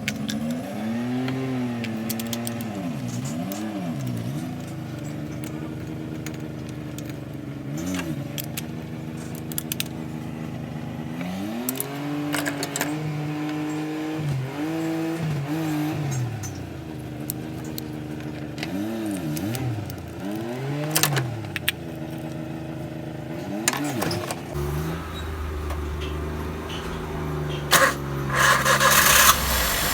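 Maruti Suzuki K-series car engine being revved in repeated throttle blips, its note rising and falling again and again, with a few sharp clicks. Near the end a low steady hum comes in and there is a short loud burst of noise.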